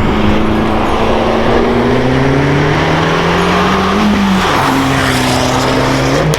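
Abarth 595 Turismo's turbocharged 1.4-litre four-cylinder engine pulling hard, its note climbing steadily. About four seconds in the pitch drops sharply at an upshift, then it pulls again in the next gear.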